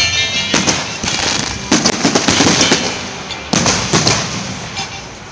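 Fireworks display: aerial shells bursting in quick succession, each bang trailed by crackling. There is a dense run of crackles about two seconds in and another burst past the three-and-a-half-second mark.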